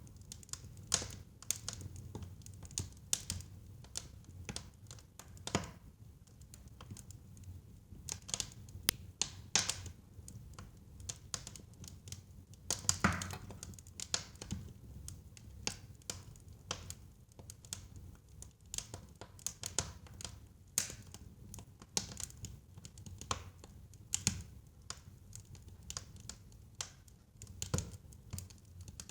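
Wood fire in a fireplace crackling: irregular sharp pops and snaps over a low, steady rumble of the burning logs, with one louder pop about halfway through.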